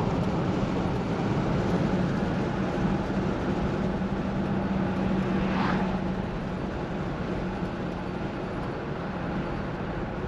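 1968 Plymouth Fury's 383 V8 running steadily at cruise, with road and tyre noise heard from inside the cabin and no clunks or odd noises. About six seconds in the engine note fades and the sound drops a little as the car eases off, with a brief high squeak just before.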